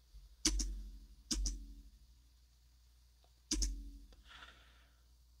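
Three sharp double clicks, each with a low thump and a short ringing tail: half a second in, just over a second in, and about three and a half seconds in. A faint breath follows near the end.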